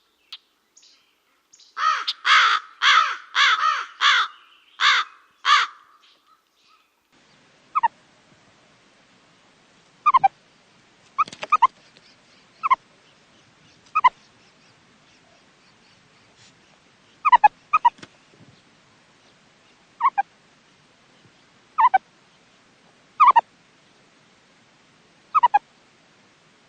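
Bird calls: a quick run of about seven loud, harsh caws, then, after a short break, single short calls that slide downward in pitch, spaced one to three seconds apart over a faint hiss.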